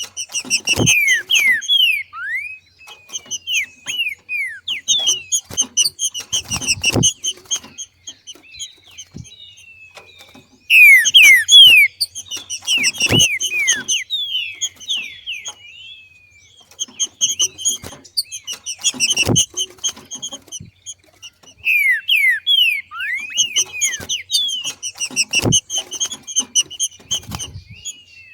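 Green-winged saltator (trinca-ferro) giving its 'macheado' chatter: bouts of rapid, quickly falling chirps, one bout every five to six seconds. Each bout has a short low thump.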